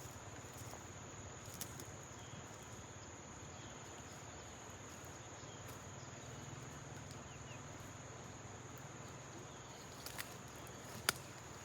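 Insects chirring in one steady, unbroken high tone, with a few sharp clicks near the end.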